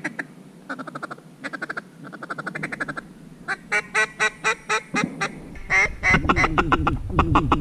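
Quick runs of mallard-style quacks in clusters, some rapid and chattering, others slower and spaced. A low rumble comes in under them about six seconds in.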